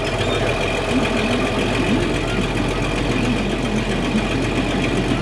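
Farm tractor engine idling steadily just after starting: it cranked and caught on a battery that still had voltage.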